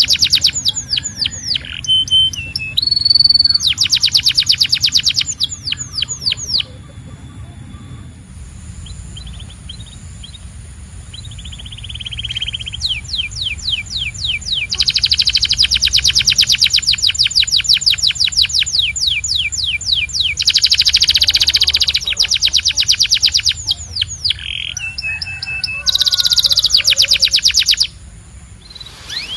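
Canary singing in fast trills: long runs of rapidly repeated notes, each lasting several seconds. A softer, quieter passage comes between them, and the song drops away near the end. A low steady hum runs underneath.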